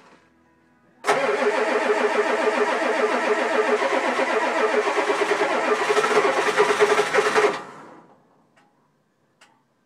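1987 Ford F-250's 6.9 L IDI diesel V8 being cranked over in 9-degree cold: it turns over with a fast, even pulsing for about six and a half seconds, then cuts off and winds down to a stop.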